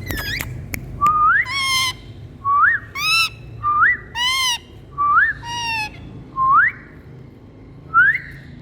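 Indian green parrot calling over and over, about once a second: each call is a clean rising whistle followed straight away by a harsher, overtone-rich squawk. A sharp burst of clicks and a shrill call comes right at the start.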